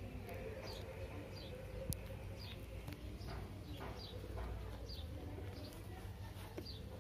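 A bird chirping over and over, short high chirps that slide down in pitch, a little more than one a second, over a low steady background hum. A single sharp click about two seconds in.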